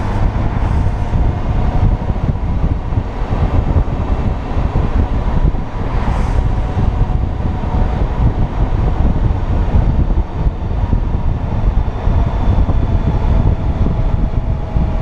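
Wind rushing over the microphone over the steady running of a Honda Gold Wing touring motorcycle's 1800cc flat-six engine, cruising through curves at an even pace.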